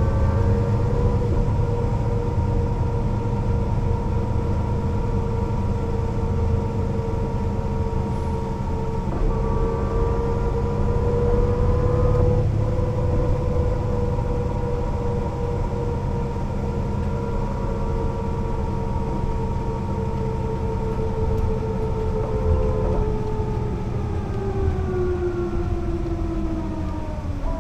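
Mercedes-Benz O 405 NÜ bus underway: a low diesel rumble under a steady drivetrain whine. The whine holds its pitch at speed, then falls over the last few seconds as the bus slows.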